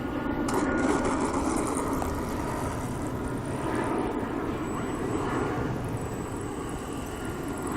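Police helicopter overhead: a steady rumble of rotor and engine noise.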